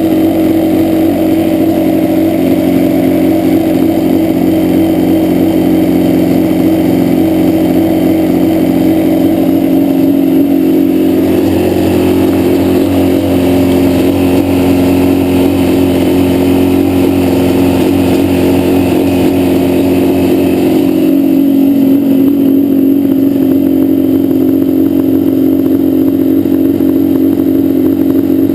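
Yamaha Banshee's two-stroke parallel-twin engine running at a steady idle, with a fuller sound for about ten seconds in the middle. It is misfiring on the left cylinder, a fault the owner has not traced: it does not follow the spark plug and persists after rebuilt and balanced carbs.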